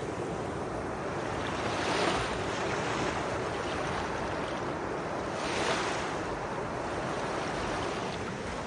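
Small surf breaking on a beach: a steady wash of water with two waves swelling louder, about two seconds in and again near six seconds.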